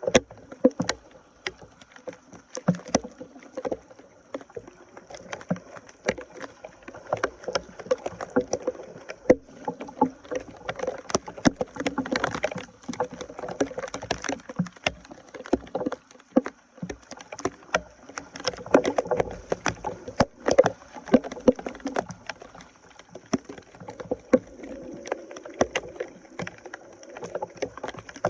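Water splashing and sloshing irregularly as debris is cleared from a clogged drain, with frequent sharp snaps and knocks.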